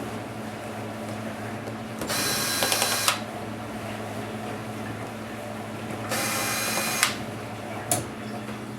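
Small electric screwdriver whirring in two runs of about a second each, backing out laptop screws, with a couple of sharp clicks near the end over a steady low hum.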